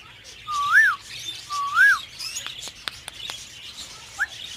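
Budgerigars calling in a breeding aviary: two clear whistled calls that rise and fall, about a second apart, over faint high chatter, then a few short clicks and a brief rising call near the end.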